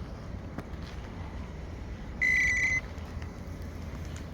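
A single high electronic beep, about half a second long, comes a little over two seconds in, over a steady low rumble.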